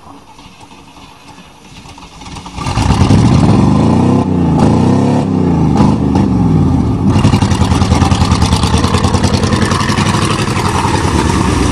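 1988 Chevrolet pickup's 305 small-block V8 revving hard, starting suddenly about two and a half seconds in. The pitch rises and falls for a few seconds, then the engine is held at high revs to the end.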